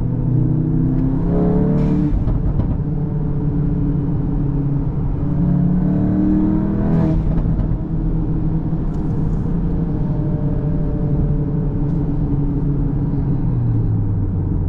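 Cupra Formentor VZ's 2.0 TSI turbocharged four-cylinder engine pulling through the gears under acceleration. Its note rises and breaks at a gear change about two seconds in, rises again to a second shift about seven seconds in, then runs steadier and drops in pitch near the end.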